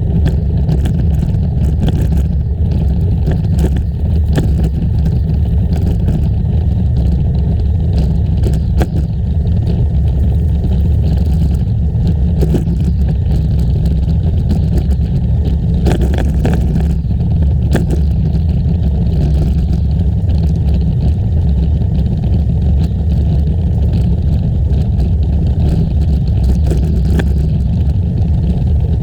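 Wind rumbling steadily on the microphone of a camera carried on a moving bicycle, with scattered clicks and rattles from the bike over the trail surface.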